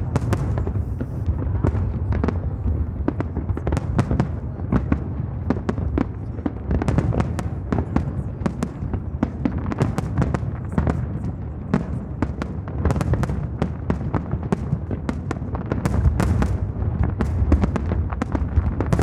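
Fireworks display: many aerial shells bursting in quick succession, sharp bangs and crackles over a continuous low rumble of booms echoing across the water.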